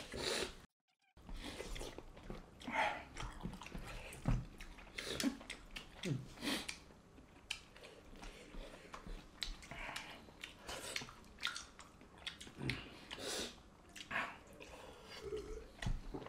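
People chewing and lip-smacking while eating rice with pork and egg curry, in many short, irregular mouth smacks.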